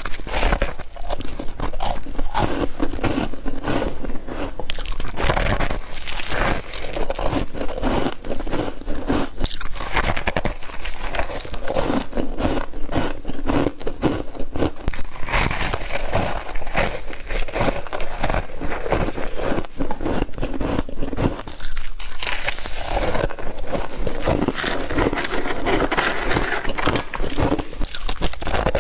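Frost being bitten and chewed close to the microphone: dense, continuous crunching and crackling.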